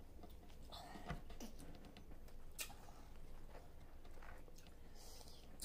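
Faint, wet chewing and smacking of ripe watermelon being eaten by hand, with a few sharp clicks scattered through it.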